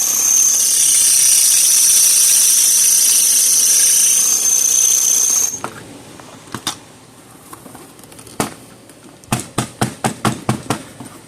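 Drill bit boring into a steel bolt head, cutting with a steady high-pitched squeal for about five and a half seconds, then stopping suddenly. After it come a few scattered clicks and a quick run of sharp taps.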